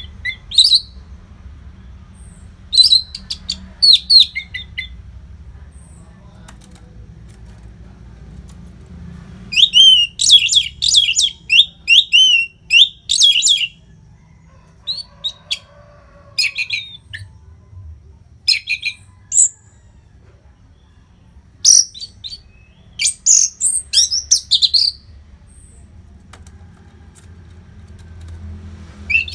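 Orange-headed thrush singing: bouts of quick, varied high whistled notes with short gaps between them, the longest and busiest run about ten seconds in. A faint low steady hum lies underneath.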